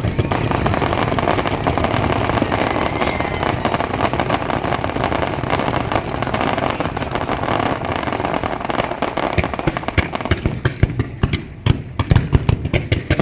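Fireworks display: a dense, continuous crackle and booming of many shells at once, thinning after about ten seconds into separate loud bangs and pops.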